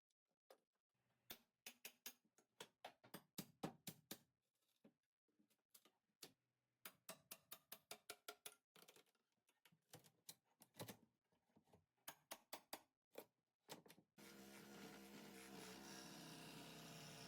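Faint, irregular clicks and light knocks, several a second, with silence between them, stopping about 14 seconds in. A steady hum then sets in.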